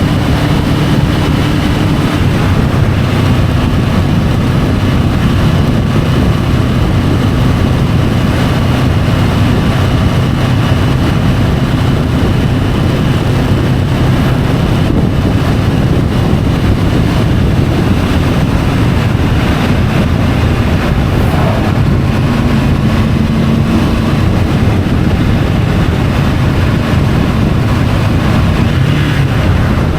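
Triumph Tiger 850 Sport's inline-three engine running at a steady cruise, with wind and road noise on the bike-mounted camera's microphone. The engine note shifts slightly a little past the middle.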